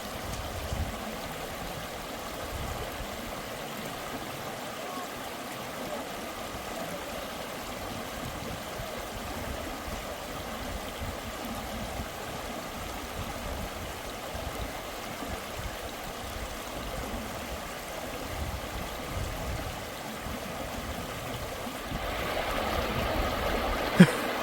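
Stream water running steadily, growing louder about two seconds before the end, with a single sharp tap just before the end.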